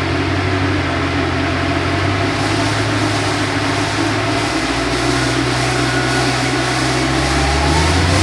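Dodge Challenger V8 running steadily on a dyno during a dyno pull, its low tone shifting about halfway through and its pitch starting to climb near the end as the revs rise.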